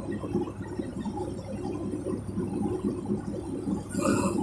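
Steady engine and road drone inside a moving semi truck's cab, with a brief hiss near the end.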